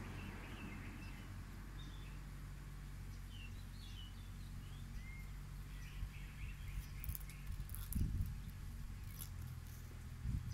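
Small birds chirping in the background, short high calls scattered throughout, over a steady low rumble. A low bump about eight seconds in and another near the end.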